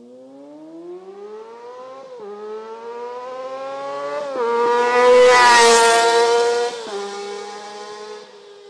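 Honda CBR250RR motorcycle with a Yoshimura R55 slip-on exhaust accelerating hard, revving high and upshifting three times, with the pitch dropping at each shift. It is loudest as it goes by, about two-thirds of the way through, and then fades away.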